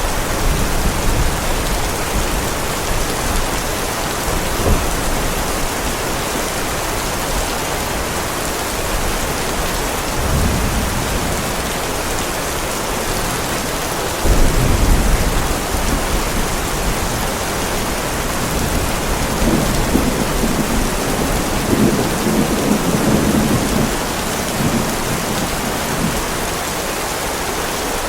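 Heavy rain falling steadily on a driveway, a constant hiss, with distant thunder rolling through it: a low rumble that starts suddenly about halfway through, and longer rumbling later on.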